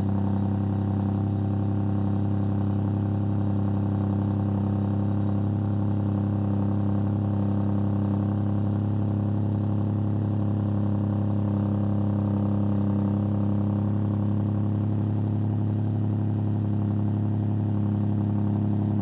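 Ford 2.7 EcoBoost twin-turbo V6 idling steadily after a cold start, heard through catless downpipes, a Walker mid pipe and a Banks Monster exhaust, with a deep, even exhaust tone.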